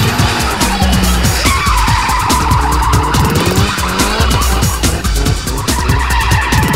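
Drift car sliding sideways, tyres squealing in long wavering screeches while the engine revs up and down, with music playing over it.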